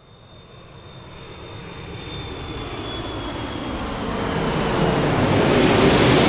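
Airliner cabin engine noise: a broad, even rush with a faint high whine. It fades in from silence and grows steadily louder.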